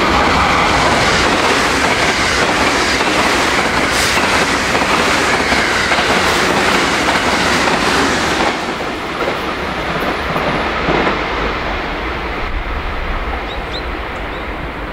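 A JR West Special Rapid electric train of 225 and 223 series cars passing through the station at speed: a loud rushing noise of wheels on rail with clattering over the rail joints. It drops off suddenly about eight and a half seconds in as the last car goes by, then a lower rumble fades away.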